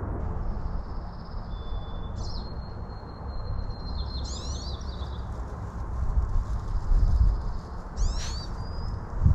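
Small birds calling in a forest: long thin whistled notes at a few different pitches, and quick falling chirps about four seconds in and again near the end. A steady low rumble runs underneath.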